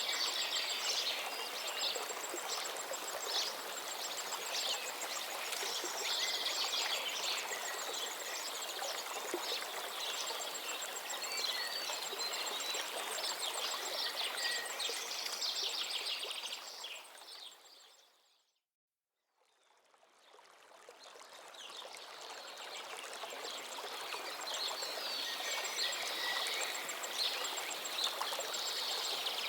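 Running water, like a stream, with many small birds chirping and trilling over it. About two-thirds of the way through, it all fades out to a moment of silence, then fades back in.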